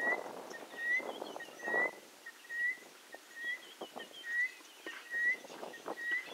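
A bird calling a short rising whistled note over and over, a little more than once a second, with fainter higher twittering.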